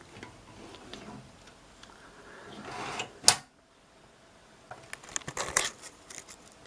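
A 2 TB WD Black hard drive being slid into a drive bay: a rising scrape that ends in a sharp click about three seconds in as it seats, followed by a run of small clicks and rattles of handling.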